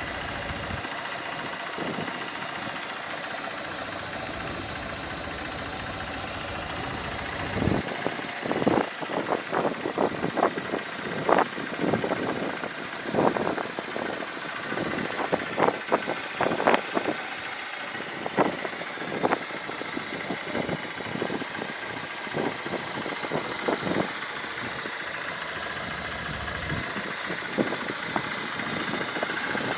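Honda CBF125 motorcycle's single-cylinder four-stroke engine running at idle, steady throughout. A run of irregular sharp knocks or clicks sounds over it through the middle of the stretch.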